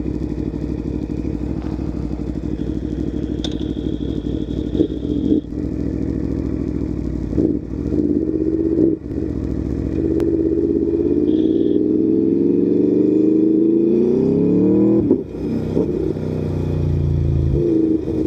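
Aprilia Tuono V4 1100 Factory's V4 engine running steadily, then pulling away under acceleration. The revs climb for several seconds and drop sharply at a gear change about 15 seconds in.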